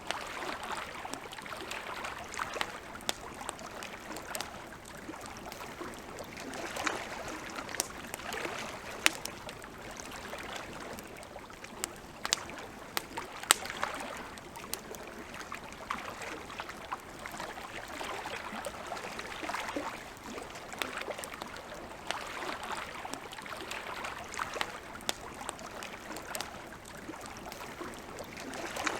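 Campfire crackling, with sharp pops at irregular moments, the loudest about 9 and 13 seconds in, over a steady hiss.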